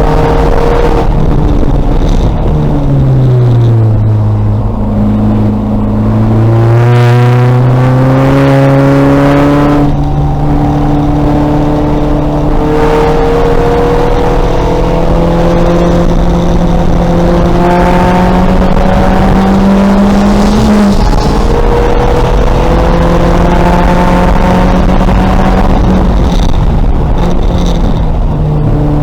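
2000 VW Golf race car's engine lapping a circuit at race pace: the revs fall under braking early on, jump sharply about seven seconds in, then climb steadily through the gears with sudden drops at the shifts.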